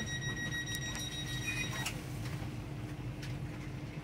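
Train heard from inside the carriage as it runs slowly into a station: a steady low running rumble with a high steady whine that stops about halfway through, and a few faint clicks.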